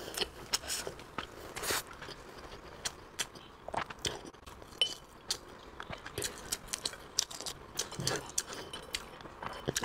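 A person chewing a mouthful of deep-fried, sesame-crusted pork, heard as irregular soft crunches and wet mouth clicks.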